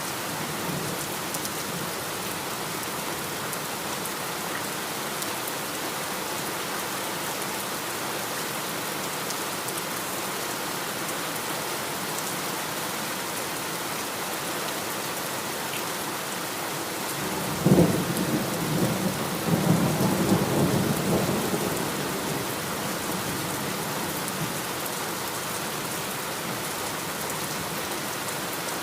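Steady heavy rain falling, and a little past halfway a thunderclap cracks and rolls on in a low rumble for about five seconds before fading back under the rain.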